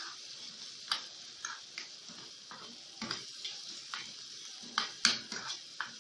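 Minced garlic, dried coriander and grated green pepper frying in butter in a pan with a soft, steady sizzle. A spoon stirs and knocks against the pan about eight times at uneven intervals, the loudest knock about five seconds in.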